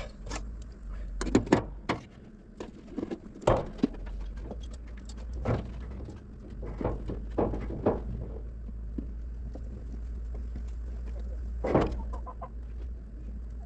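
Scattered sharp clicks and knocks at uneven intervals, the loudest about a second and a half in, another near three and a half seconds and one near the end, over a steady low hum.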